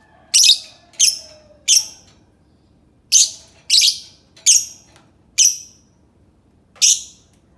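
Lovebird giving sharp, shrill, high-pitched calls: eight short shrieks, three in quick succession, then after a pause four more and a final one near the end.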